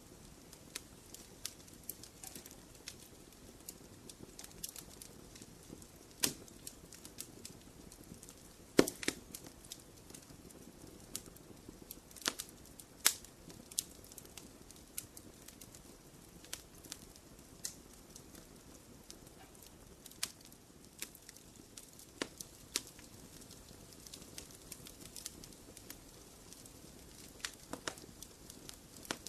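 Wood fire crackling and popping: a low steady hiss with scattered sharp pops, the loudest about nine and thirteen seconds in.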